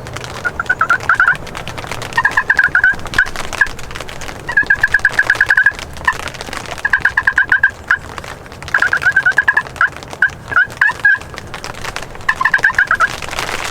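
Eastern wild turkey gobblers gobbling, about six rattling runs of quick notes, each about a second long.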